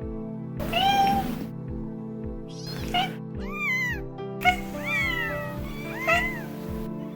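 Cats meowing, about six separate meows that each rise and fall in pitch, the longest about a second in, over background music with a steady beat.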